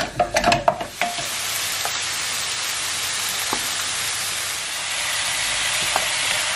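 Chicken pieces frying in oil in a pan, with a few clattering knocks of a wooden spoon against the pan in the first second. From about a second in there is a steady sizzle with only an occasional faint tick.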